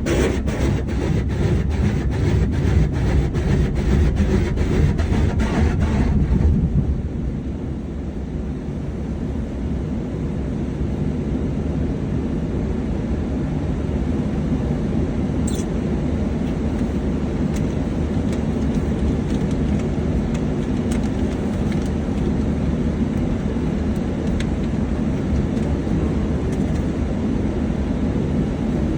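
Automatic car wash equipment working on a car: a rapid rhythmic slapping, about three strokes a second, stops about six seconds in and gives way to a steady low rumble.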